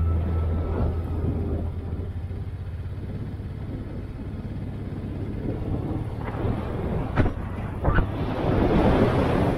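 Honda Deauville 650's V-twin engine running under way, with wind rushing over the microphone that grows louder over the last few seconds, and a couple of short knocks.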